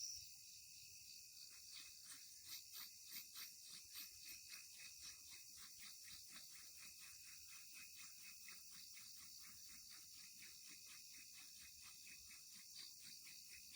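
Faint night-time insect chorus of crickets, steady and high-pitched. It comes with a regular pulsing about three times a second that is loudest a few seconds in.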